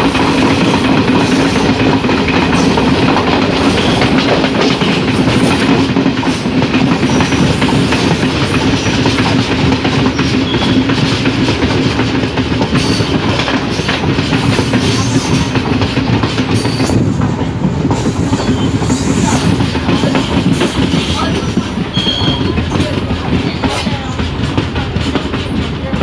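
DEMU diesel-electric multiple unit train running at speed, heard loud and close from an open window: steady wheel-on-rail and rushing noise. A steady low hum runs under it and fades out about three-quarters of the way through.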